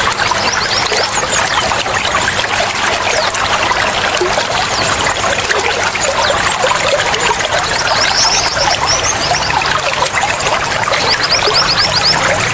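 Flowing water trickling and splashing steadily, like a small stream or water running over stones.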